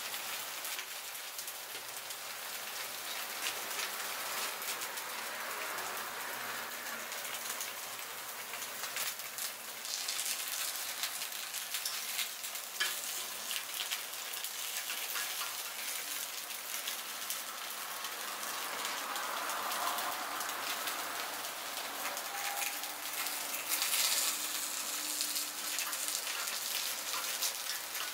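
Takoyaki sizzling in the wells of a hot cast-iron takoyaki pan, a steady crackle with small ticks as a metal pick turns the balls.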